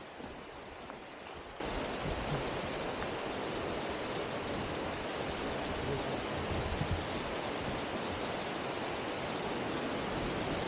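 Steady rushing of mountain stream water, which jumps abruptly louder about a second and a half in and then holds steady.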